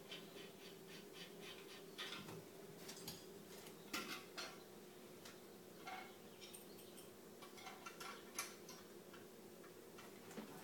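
Faint scattered clicks and light knocks over a low steady hum, with a quick run of small ticks in the first couple of seconds and a few sharper clicks later on.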